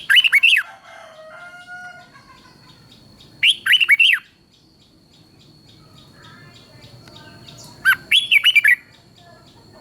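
Red-whiskered bulbul singing three short, loud phrases of quick falling whistled notes, about four seconds apart: near the start, about three and a half seconds in, and about eight seconds in.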